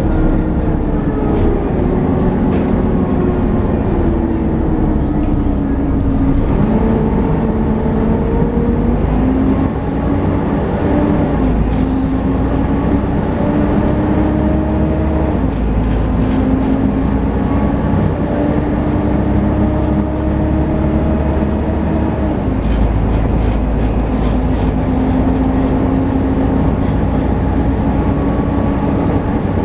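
Volvo B7TL double-decker bus running under way, heard on board: the engine and driveline whine climbs in pitch and drops back several times as it pulls away and changes gear. This is the vacuum-cleaner-like whine that earns these buses the nickname 'hoover'.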